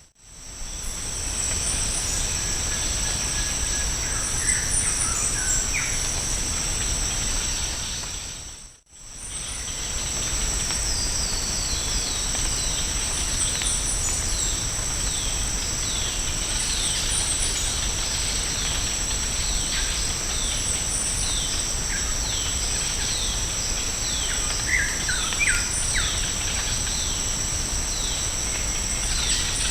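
Rainforest ambience: a steady high-pitched insect drone on two tones, with a bird repeating short falling whistles about once a second from roughly a third of the way in and a few brief chirps from other birds. The sound dips out briefly near the start and again about nine seconds in.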